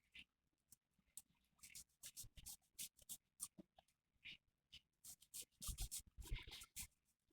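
Faint, irregular scratching and clicking, like small handling noises, busiest in the last two seconds.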